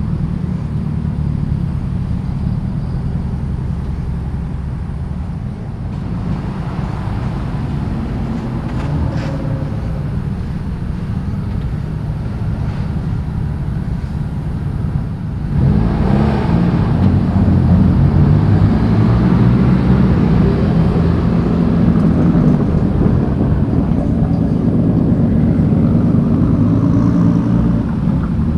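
Car engines and exhausts running as cars roll slowly past, their pitch rising and falling. A louder car comes close about halfway through and stays loud until the end.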